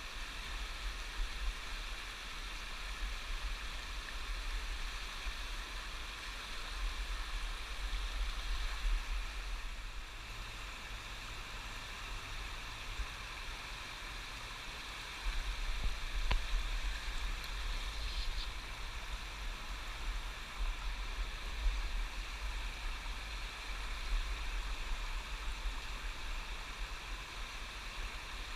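River water flowing and rippling steadily over the riffles of the Lower Mountain Fork, with a low rumble underneath that swells and fades.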